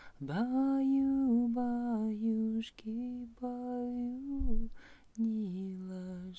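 A woman singing a slow lullaby in long, level held notes, phrase after phrase with short breaks.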